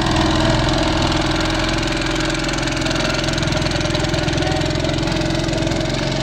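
An engine running steadily, with an even pulsing hum, over the continuous rush of fast-flowing floodwater.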